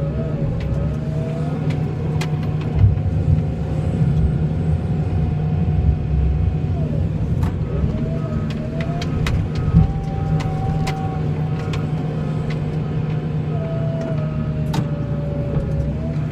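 Engine of a snow-plowing vehicle running steadily, with a whining tone that drifts up and down in pitch and scattered clicks and knocks.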